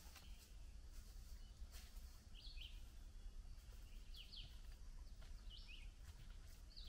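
Near silence in woodland, with a songbird giving short, high, falling chirps, mostly in pairs, three or four times over a faint background hush.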